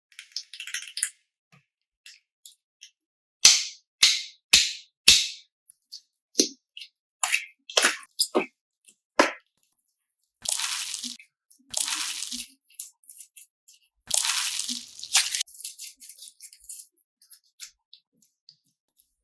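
Slime being squeezed and worked by hand: sharp popping crackles, four loud ones in quick succession about three and a half seconds in, then longer wet squelches around the middle and later.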